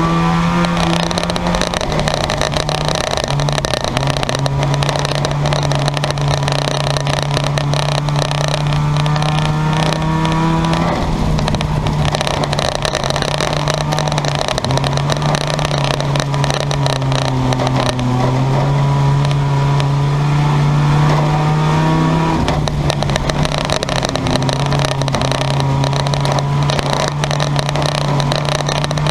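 Car engines running hard in a race, a loud continuous engine note that climbs in pitch and then drops off and picks up again about every eleven seconds.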